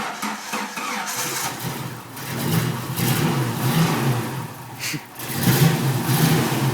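Jeep Wrangler 4.0 L inline-six, a freshly installed replacement engine, on its first start: cranking that catches about a second in, then revved up twice. The engine settles toward a steady run near the end.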